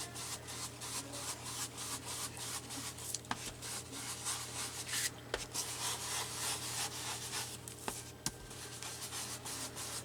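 Paper being rubbed with an ink applicator in quick repeated scratchy strokes, distressing the paper's white edges with ink.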